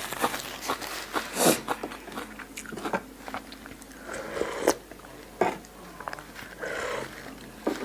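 A person biting and chewing a crunchy salad of fresh lettuce and pork sausage (yum moo yor): a string of short, sharp crunches at irregular intervals.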